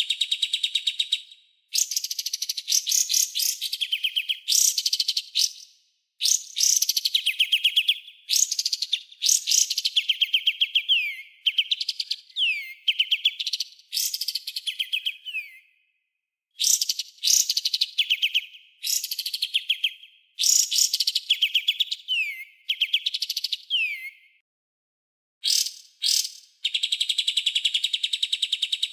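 Songbird master-track song: high-pitched bouts of rapid, sharp repeated notes, each one to three seconds long and separated by short pauses. Several bouts end in quick falling whistles.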